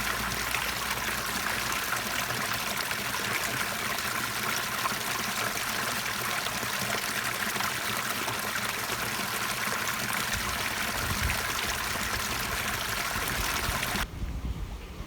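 Well-water stream trickling and babbling steadily along a narrow waterway. About 14 seconds in the water sound cuts off abruptly, leaving low rumbling thumps.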